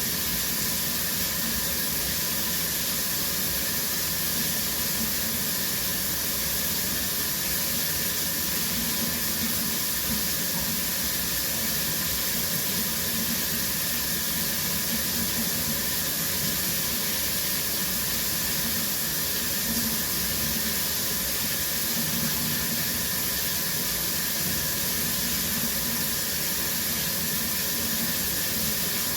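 Shower running steadily: water spraying from the showerhead and splashing down in a small tiled room, an even hiss.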